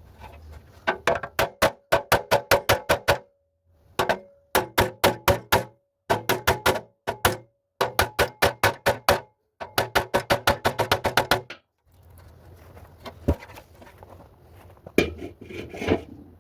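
A hammer beating bent steel car body parts straight, about five quick strikes a second with a metallic ring, in several bursts that cut off abruptly. A few lighter knocks follow near the end.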